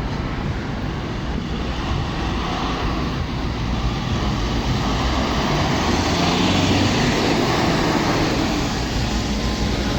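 MAZ-203 city bus in motion, heard from inside: a steady rumble of diesel engine and road noise that swells a little about halfway through.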